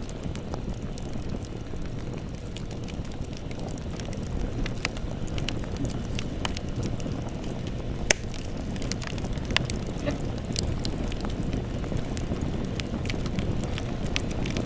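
Campfire burning: a low steady rumble of flames with scattered sharp crackles and pops, the loudest pop about eight seconds in.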